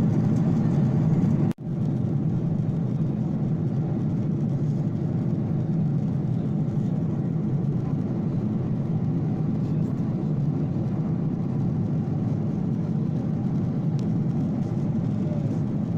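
Steady low drone of an airliner cabin: engine and airflow noise heard from inside the plane. It briefly cuts out about a second and a half in.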